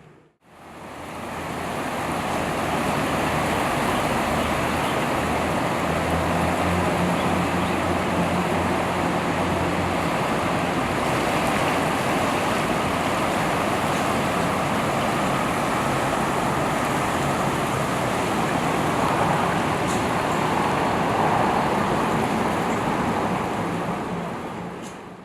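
Steady rushing of the fast-flowing, flooded Arkansas River. A low engine hum runs under it for roughly the first ten seconds.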